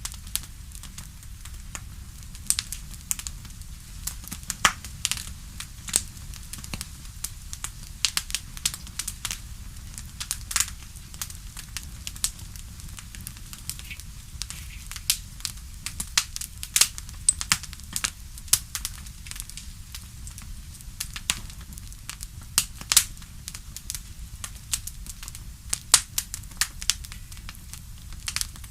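Crackling wood fire: irregular sharp pops and snaps, several a second, over a low steady rumble.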